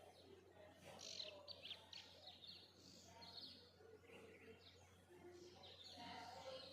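Songbirds chirping faintly, many short quick calls overlapping.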